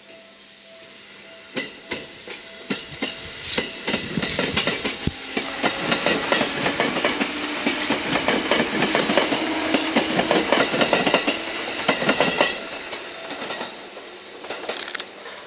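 Seibu 101-series electric train running close past, its wheels clicking rapidly over the rail joints. The clatter builds for the first few seconds, is loudest while the cars go by, and drops off sharply about twelve seconds in as the train pulls away.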